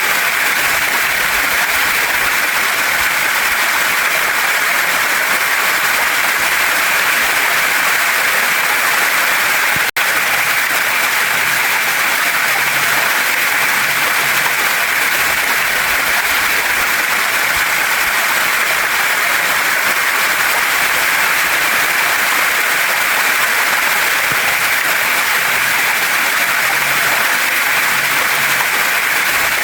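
Waterfall and mountain stream rushing steadily over rocks, an even, dense hiss of water. It cuts out for an instant about ten seconds in.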